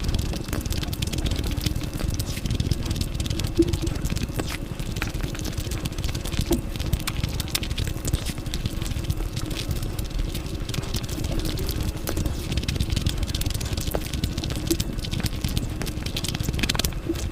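Close-miked eating sounds: continuous chewing with many small clicks and crackles.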